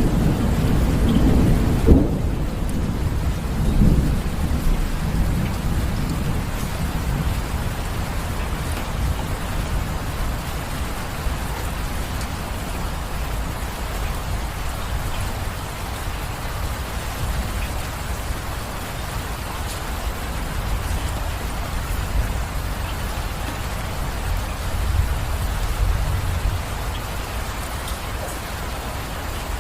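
Steady rain falling, with thunder: a sharp crack about two seconds in, rumbling that fades over the next few seconds, and another low rumble near the end.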